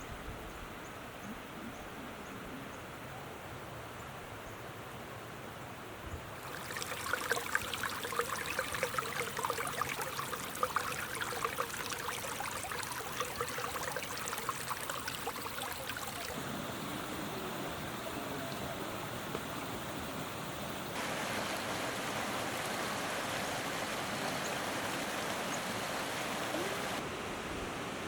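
Running water, like a mountain stream: a softer rush at first, then a louder splashing babble from about six seconds in. Near the end it switches abruptly to a steadier, even rush.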